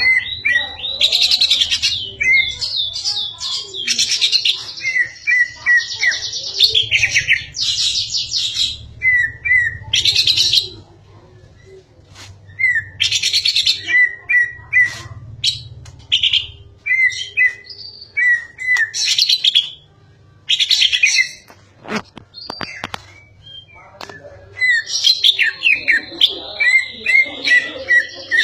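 A pet songbird singing in bursts of loud chirps and fast trills, phrase after phrase, with two short pauses. A few sharp clicks fall in the second pause.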